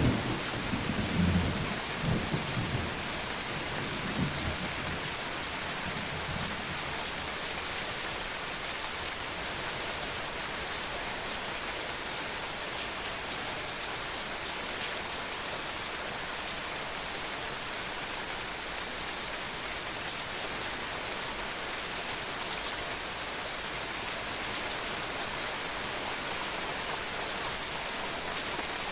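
Steady rain falling, with a roll of thunder rumbling in several surges over the first few seconds and dying away.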